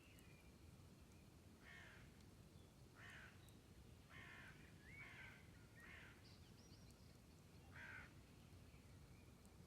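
A bird calling about six times in short, separate calls, spaced unevenly, heard faintly over a low steady background hiss.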